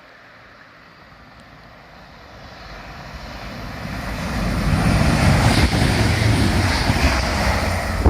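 A TransPennine Express diesel train approaching along the line and coming alongside the platform. Its rumble and rushing noise build steadily over the first five seconds or so, then stay loud and even.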